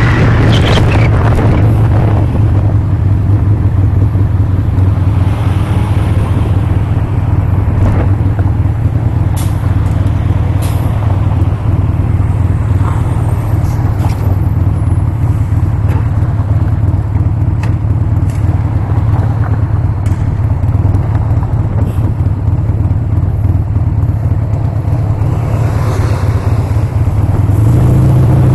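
Harley-Davidson Sportster's air-cooled V-twin engine running steadily with a deep, loud note, with wind noise dying away in the first second or so. Near the end the engine note rises.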